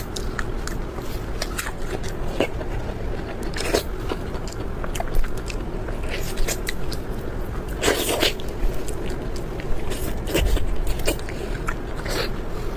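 Close-miked eating sounds: a person biting and chewing food, with irregular crunchy and moist clicks. A louder crunch comes about eight seconds in.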